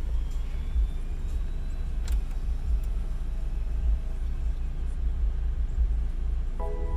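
Power-folding roof of a BMW convertible retracting: a steady low mechanical hum with a few faint clicks from the roof mechanism. A short electronic tone sounds near the end.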